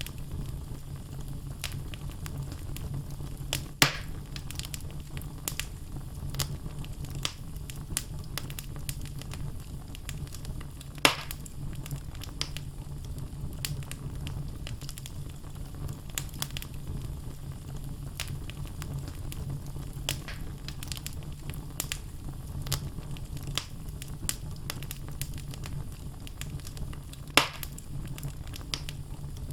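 Wood fire burning in a fireplace: a steady low rumble of flames with constant small crackles of burning logs and three loud sharp pops spread through.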